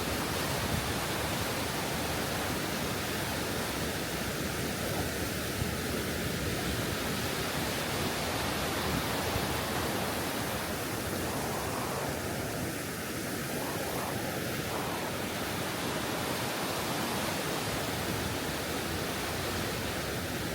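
High Force waterfall on the River Tees, rushing water making a steady, unbroken noise.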